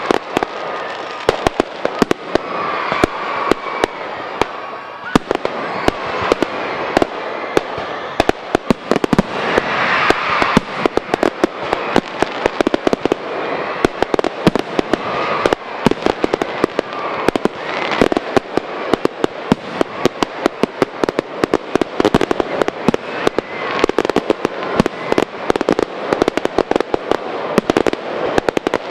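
Fireworks display: a continuous barrage of rapid bangs and crackling, several reports every second without a pause.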